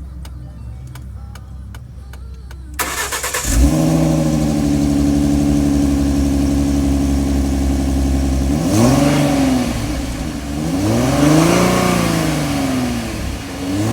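Ford Mustang engine started through a newly fitted Flowmaster 10 Series muffler, cranking briefly and catching about three seconds in, then idling steadily before two quick revs that rise and fall. A light, even ticking comes before the start.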